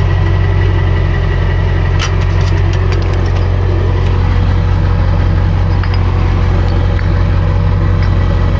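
Truck engine and road noise as the vehicle drives, a steady low drone with no change in speed. A few light rattling clicks come about two seconds in.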